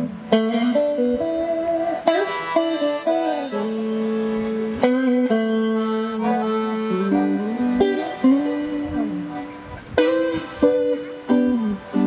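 Accordion and guitar duo playing an instrumental piece: the accordion holds long sustained melody notes over plucked guitar.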